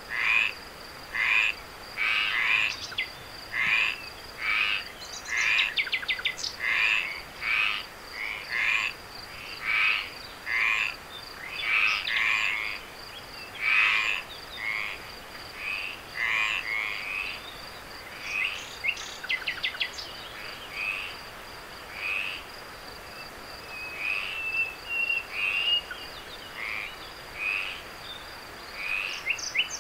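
A chorus of frogs croaking at night, short calls repeating more than once a second, with a few fast rattling trills among them. A steady high-pitched insect trill runs underneath.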